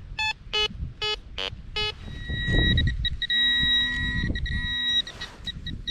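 Bounty Hunter Tracker Pro metal detector sounding off on a buried target: about five short, evenly spaced beeps, then a steady high electronic tone, with lower tones switching on and off, for about three seconds.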